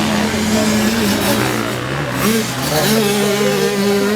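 Several motocross bike engines run together, their pitches rising and falling as the riders work the throttle; one climbs about three seconds in and then holds.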